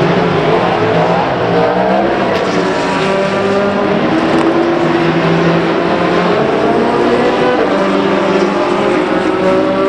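Several endurance race cars running together on track, their engine notes overlapping and gliding up and down in pitch as they pass.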